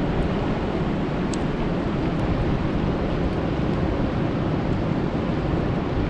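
Steady rain falling on a lake: an even, deep rushing noise, with a few faint sharp ticks.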